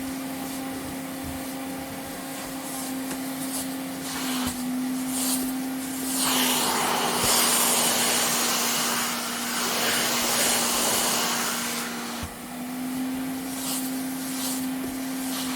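Vacuum cleaner running with a steady motor hum. About six seconds in, a louder rushing hiss of air swells up and lasts for about six seconds before dropping back.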